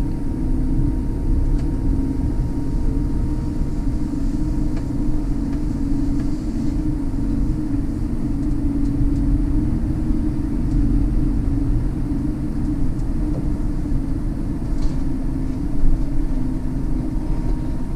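Steady low rumble inside a Scania electric bus rolling slowly, with a faint steady hum.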